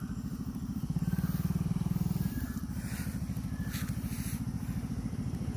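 Small motorcycle engine running at low revs with an even, rapid beat, getting louder for about a second near the start as the throttle is opened a little.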